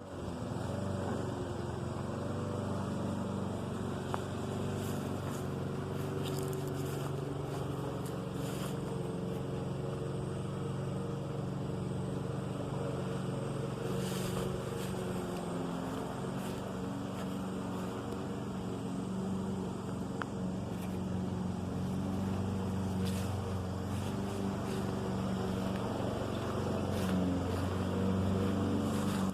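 An engine running steadily, giving a low hum with a few faint clicks.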